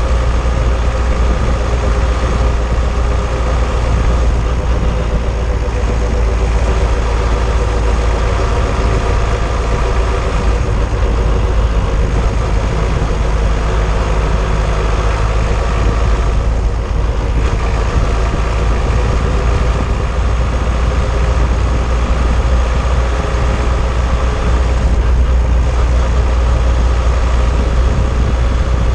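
Steady low rumble of tyre, road and wind noise, picked up by a camera mounted on a car's anti-roll bar, underneath the car, while it is driven.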